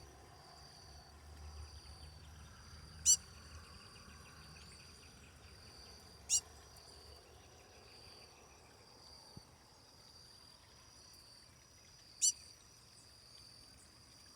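Three sharp, loud calls, each a quick downward-sweeping note; the first is followed by a short rapid trill. Underneath, insects chirr steadily in a high pulsing tone.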